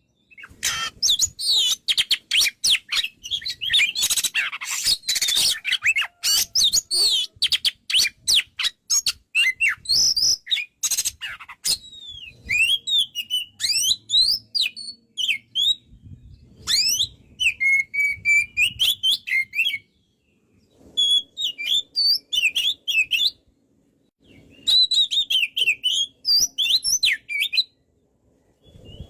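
Oriental magpie-robin (kacer) singing a long, varied song: fast, harsh chattering and rattling notes for the first dozen seconds, then clear whistled and slurred phrases broken by short pauses.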